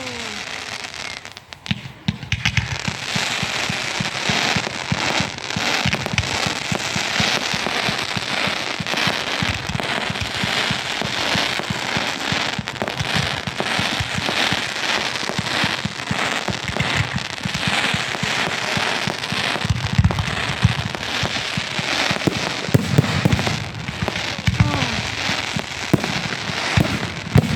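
Fireworks going off as a dense, continuous crackle of rapid sharp pops, with a few deeper bangs about twenty and twenty-three seconds in.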